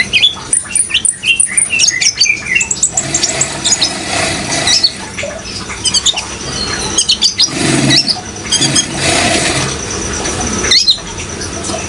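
Kolibri ninja sunbird song: quick, high, thin chirps and short trills in fast runs, over a steady rush of running water. The chirping is densest in the first few seconds, then grows sparser while the water continues.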